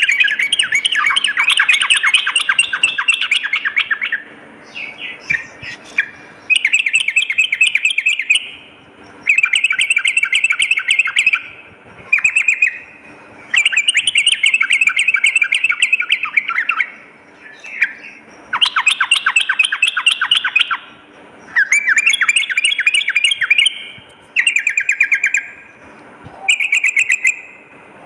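Yellow-vented bulbul (trucukan) singing a series of fast, rolling chattering phrases. Each phrase lasts one to three seconds, with short pauses between them, about ten in all.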